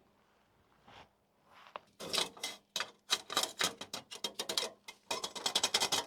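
Hand ratchet wrench clicking in quick runs as a fastener is turned on the van's front suspension. Near quiet at first with a single faint knock; the clicking starts about two seconds in and gets faster and denser near the end.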